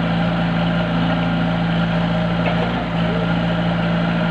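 An engine running steadily at a constant speed, with a held low hum and no change in pitch.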